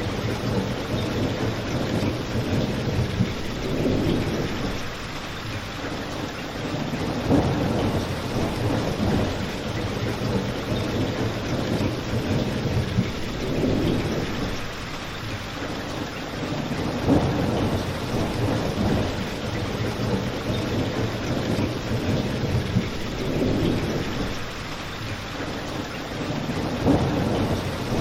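Steady rain ambience with a low rumble that swells and fades every few seconds, and a few sharp pops from a crackling fireplace.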